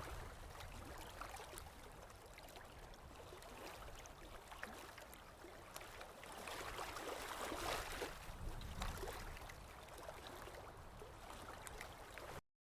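Steady, faint rushing noise with scattered light ticks, typical of wind and falling snow outdoors, swelling a little past the middle and cutting off suddenly near the end.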